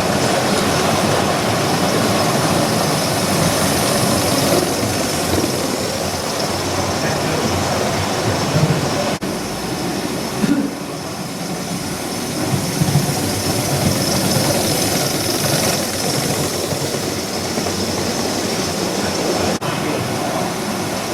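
G-scale model trains running on track, a steady rolling rumble with a hiss on top, broken briefly about nine seconds in.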